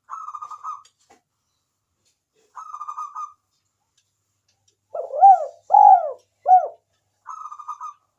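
Spotted dove (tekukur) calling: short purring trills, then three louder arched coos about five seconds in, then another trill near the end.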